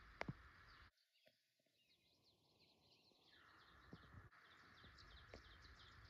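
Faint outdoor ambience with a bird's rapid trill of short, high, falling chirps, several a second, over a steady hiss. Two sharp clicks come just after the start. The sound drops almost to nothing about a second in, and the chirping returns faintly near the end.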